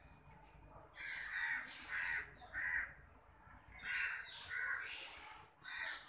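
Harsh, cawing bird calls in two runs of about three, each call under half a second long.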